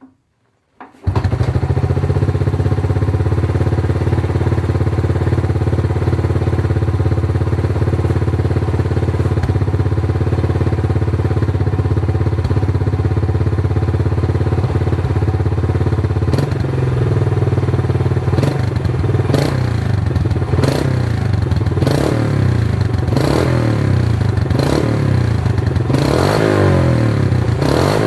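Honda Cub's single-cylinder four-stroke engine breathing through a steel slash-cut muffler: it starts and catches about a second in, then idles steadily. From about halfway on it is given a string of short throttle blips, each a quick rise and fall in revs.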